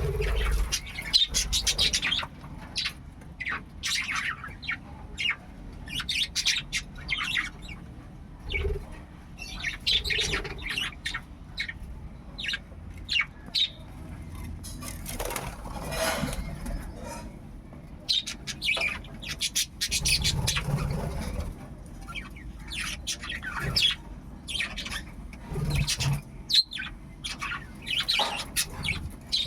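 Budgerigars chirping and chattering in many short, high calls throughout, with occasional low thumps.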